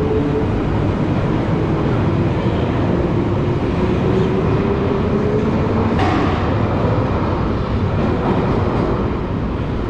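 Underground train running at speed: a steady, loud rumble with a faint motor whine slowly rising in pitch, and a short clack about six seconds in.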